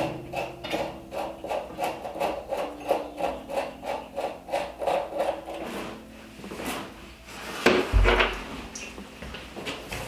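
A garden hose's threaded coupling being unscrewed from a water heater drain valve, making rhythmic scraping clicks about three or four a second. A couple of louder knocks follow, and a deep low rumble comes in near the end.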